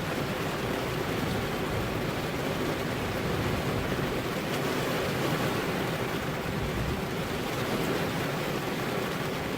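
Heavy rain falling steadily, a constant even rush with no thunder claps.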